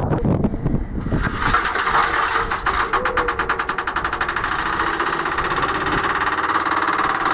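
Candy washing machine spinning up: after a low rumble, a rapid knocking starts about a second in, speeds up, and settles into a steady high whine.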